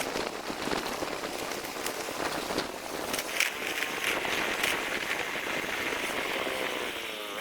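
Steady noisy hiss with scattered crackles, like rain falling outdoors.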